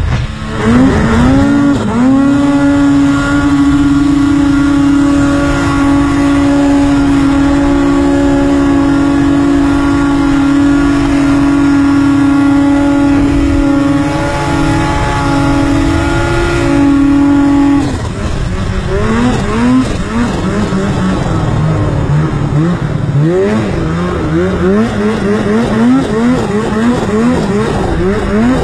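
Turbocharged snowmobile engine with a Boondocker turbo kit, revving up about two seconds in and held at high, steady revs for about fifteen seconds. Then the revs rise and fall again and again as the throttle is worked.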